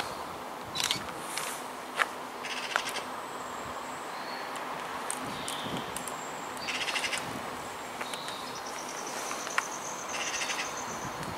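Birds calling: short high whistled notes and several quick rattling chatters, with a few sharp clicks, over quiet background noise.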